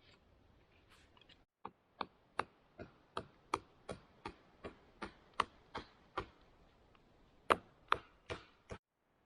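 Wood being chopped with quick, evenly spaced strikes, about two or three a second, starting about a second and a half in and stopping shortly before the end: firewood being cut for the campfire.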